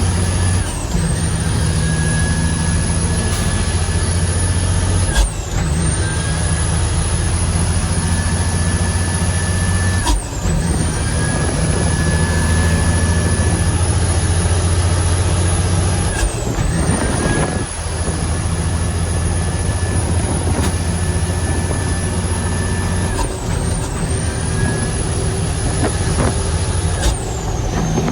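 Heavy diesel truck engine pulling hard and shifting up through the gears, the engine note and a high whine both breaking off at each of about six shifts, roughly every five seconds, then climbing again.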